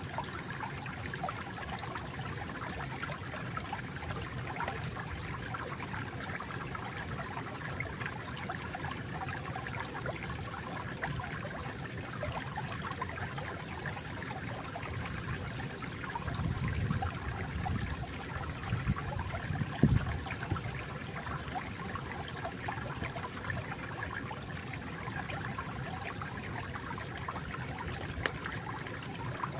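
Flowing stream water trickling and babbling steadily, with a deeper gurgling swell briefly in the middle and one sharper splash about twenty seconds in.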